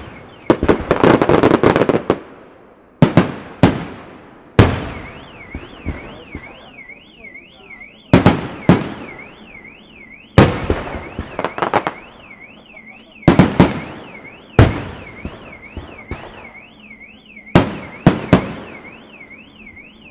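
Aerial firework shells bursting in loud, sharp bangs every second or few, with a dense spell of crackling in the first two seconds. From about five seconds in, an electronic alarm sweeps rapidly up and down, about twice a second, under the bangs.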